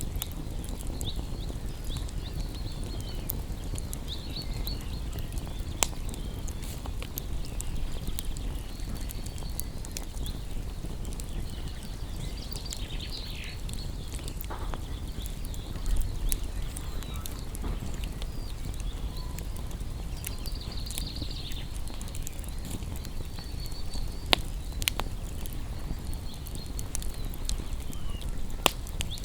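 Wood campfire burning with a steady low rush of flame and scattered sharp crackles, a few louder pops standing out.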